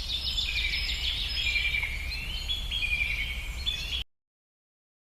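Wild birds chirping and calling in quick, stepped, trilling phrases over a low rumble; everything cuts off abruptly about four seconds in, leaving dead silence.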